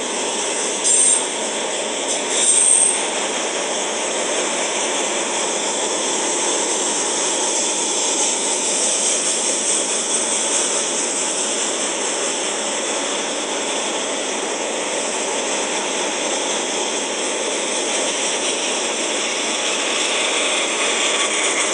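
Freight train of autorack cars rolling past, a steady rumble and rush of steel wheels on the rails. There are two short high-pitched squeaks in the first few seconds.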